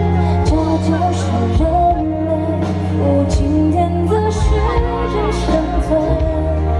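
Live pop music from a concert PA: a woman singing over a band with strong bass and a steady drum beat.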